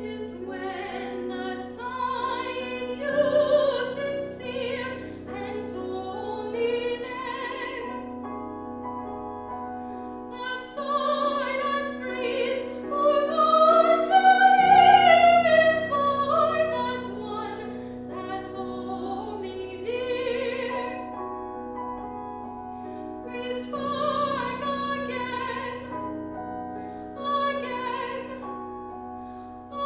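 Classical operatic singing with piano accompaniment. The voice sings with a wide vibrato and climbs to its loudest, highest phrase about halfway through.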